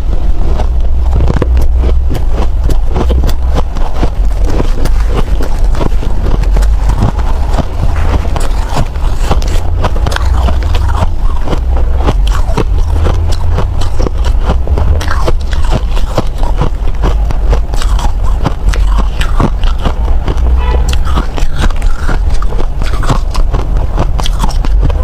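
Close-up crunching of someone biting and chewing frozen snow ice: dense, irregular crackling crunches throughout, over a steady low rumble.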